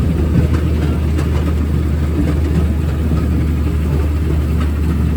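Rail speeder running along the track, with a steady low engine drone and a few sharp clicks now and then.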